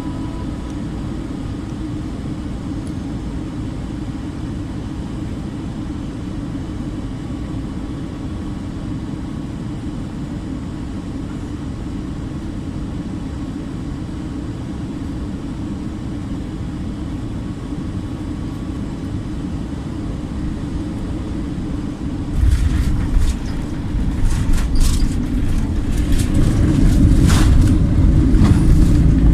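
Cabin noise of an Airbus A321 on final approach: a steady low rumble. About 22 seconds in, the aircraft touches down. The rumble turns suddenly heavier, with rattles and knocks, and it grows louder near the end as the jet rolls out on the runway.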